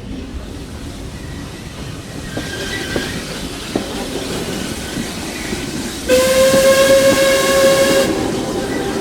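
Whistle of Caledonian Railway 0-4-4T steam tank locomotive No. 419 sounding one steady blast of about two seconds, a little after the middle, over the running clatter of the train on the track.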